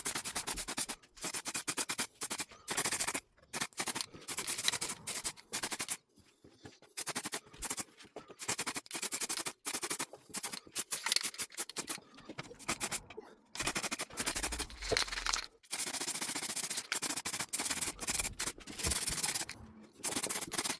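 Aerosol can of grey primer spraying in repeated short bursts of hiss, with brief pauses between passes.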